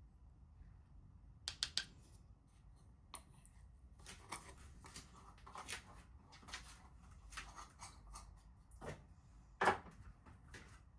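Irregular small clicks, taps and rustles of objects being handled, with a quick cluster about a second and a half in and one louder knock near the end.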